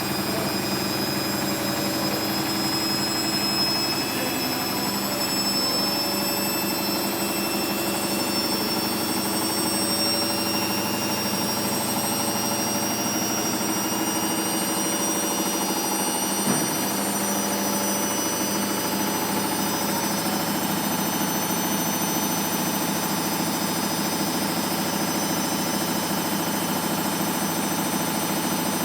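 Hoover DXA 48W3/1-80 washing machine spinning at speed on its newly repaired drive belt: a steady hum with a high whine, and one short knock a little past halfway.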